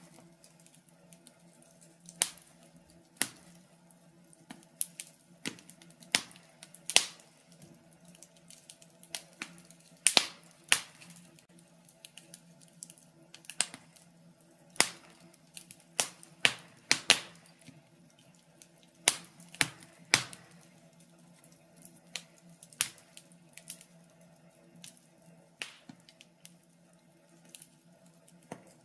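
Wood fire crackling in a fireplace: irregular sharp pops and snaps, a few every second or two, over a faint steady low hum.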